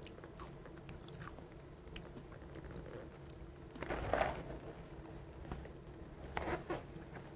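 Faint crunchy chewing of dry Chex Choco green-onion-flavoured cereal, with a couple of louder crunches about four and six and a half seconds in.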